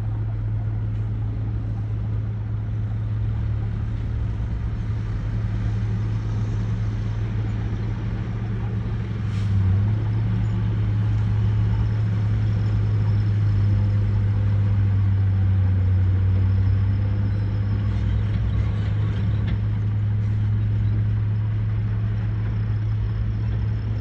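Large dump truck's diesel engine running steadily with a deep hum, growing louder from about ten seconds in for some seven seconds before settling back.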